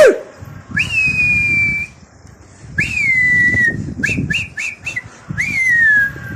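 A man whistling loudly through his mouth or fingers to his pigeons in flight. First comes a long whistle, then one that dips slightly, then four quick short whistles and a long whistle that falls in pitch. A sharp crack sounds at the very start.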